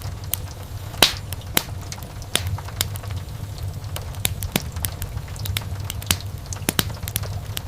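Wood fire burning in a fireplace, crackling with frequent sharp pops at irregular times, the loudest about a second in, over a low steady rumble.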